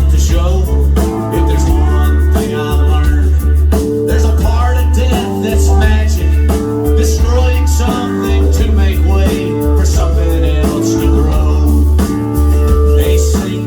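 Live rock band playing loudly, with guitar over a heavy bass line and drums.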